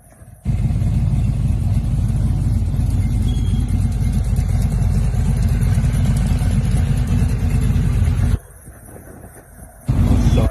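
A truck engine running steadily at a constant low pitch. About eight seconds in it cuts off abruptly to a much quieter stretch, then comes back loud briefly near the end.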